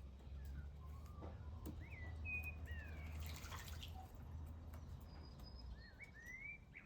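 Small birds chirping in short rising and falling calls, in two flurries, with scattered drips and a brief splash of water about halfway, typical of birds bathing at a bird bath. A steady low hum runs underneath.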